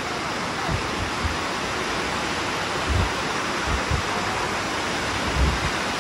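Steady rushing hiss of water cascading down Dunn's River Falls, with a few short low thumps.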